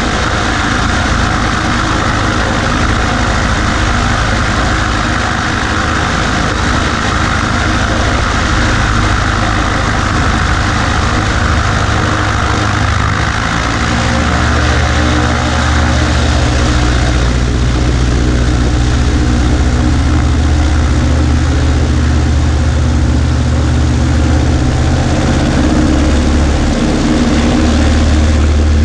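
Cessna 140A's engine and propeller running steadily, heard with wind rushing over the wing-mounted microphone. About halfway through, the wind hiss eases and the low engine drone grows stronger.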